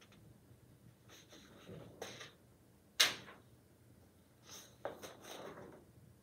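Stiff paper cue cards being swapped and dropped one after another: soft papery rustles and a few short sharp slaps, the loudest about three seconds in.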